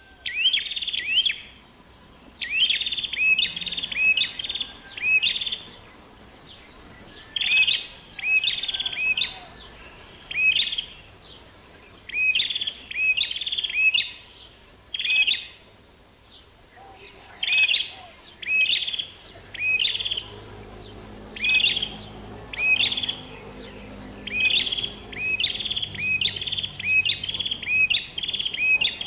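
Bar-winged prinia (ciblek) singing: repeated short bursts of two to five quick, high, upward-sweeping chirps, a phrase every second or two.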